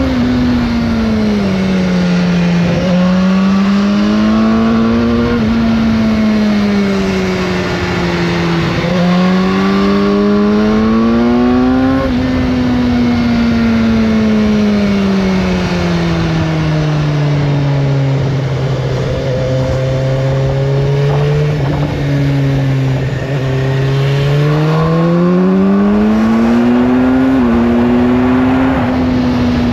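BMW S1000R inline-four motorcycle engine through its stock exhaust, ridden on the road: the engine note climbs and drops sharply several times as it shifts through the gears, slows down gradually to a low steady run, then climbs again under acceleration. Wind noise underneath.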